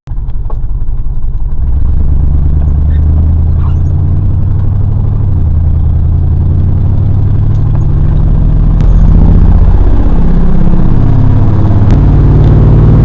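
Car engine pulling under acceleration, low and loud. It builds over the first couple of seconds, then gets louder with its pitch gliding up and down about two-thirds of the way in.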